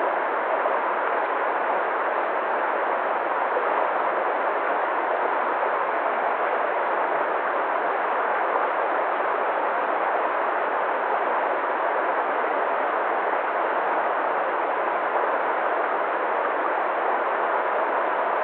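Waterfall: water falling and rushing in a steady, unbroken stream of noise.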